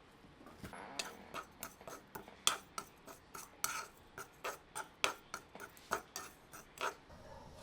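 A run of irregular light clicks and taps of kitchen utensils against a bowl or dish, about two to four a second.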